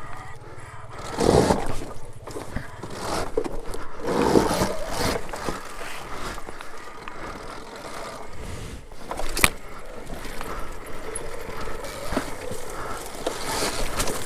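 Dirt bike riding over rough trail: tyres scrabbling and scraping on dirt and rock, with irregular knocks and clatters and a sharp click about two-thirds of the way through.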